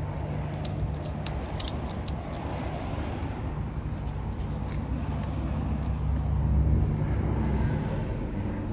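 A quick run of sharp metallic clicks and rattles from the strap and clip hardware being rigged to lift the motorcycle's rear, over a steady low hum.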